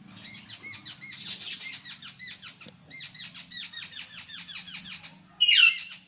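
Jungle babbler calling: two runs of rapid, harsh, chattering notes, each a quick downslur repeated about eight times a second. Near the end comes a single louder, harsh descending call.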